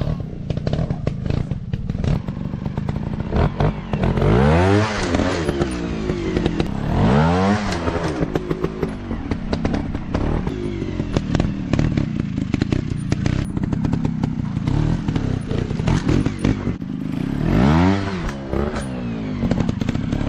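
Dirt bike engine running and revving in three short blips, its pitch rising and falling each time, with frequent sharp clicks, clatter and knocks throughout.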